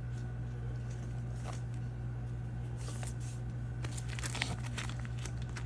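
Faint rustling and a few small clicks from fly-tying materials being handled and tied in at the vise, over a steady low hum.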